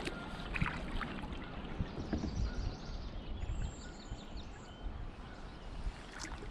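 Kayak paddling: paddle splashes and a few light knocks in the first couple of seconds, over a steady low rumble of wind on the microphone.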